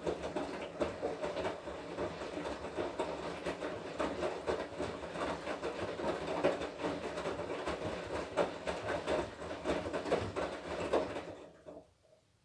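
Washing machine drum turning during the wash cycle, wet laundry tumbling and sloshing with a dense rattle of knocks. It runs for about twelve seconds, then stops near the end as the drum pauses.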